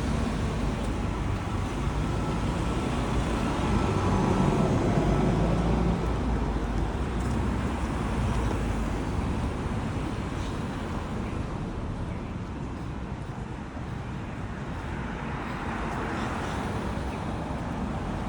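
Road traffic going by, a steady hum of vehicles with one passing close about four seconds in and another, fainter one near the end.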